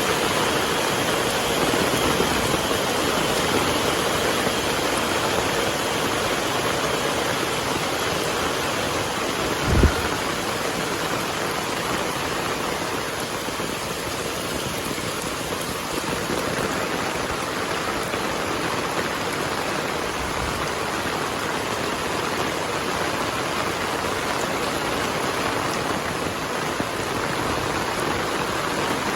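Heavy rain falling steadily, a dense even hiss of rain. About a third of the way in there is one brief low thump.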